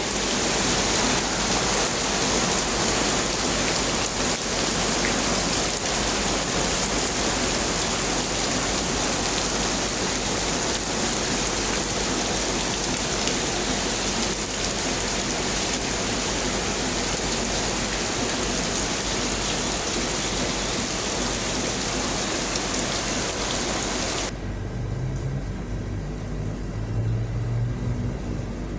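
Heavy rain pouring steadily. Near the end it cuts off suddenly, giving way to a quieter low hum.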